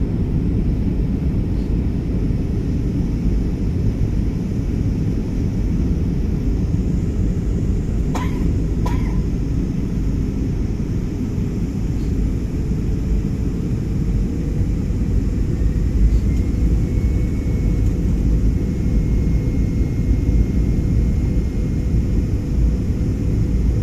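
Steady low rumble of a Trigana Air airliner's engines and airflow, around the landing at Wamena. A faint high tone rises in about two-thirds of the way through and holds, and there are two short knocks about eight and nine seconds in.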